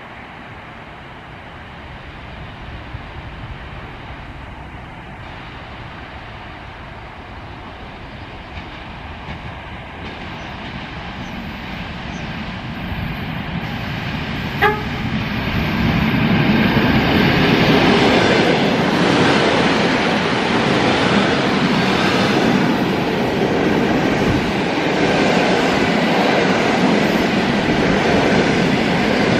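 Electric train approaching and growing steadily louder, giving one short horn toot about halfway through, then passing close by with a loud steady rumble of wheels on rails.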